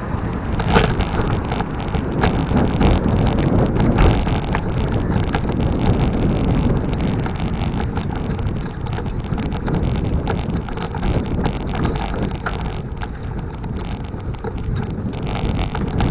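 Bicycle riding along an asphalt road: steady wind rushing over the microphone and tyre noise, with scattered small clicks and rattles.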